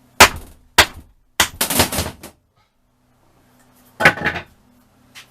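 Hammer blows on a block of wood, driving the piston out of a seized, rusted Yamaha FZR1000 cylinder barrel: a few sharp, loud knocks with pauses between them, one of them followed by a short clattering run.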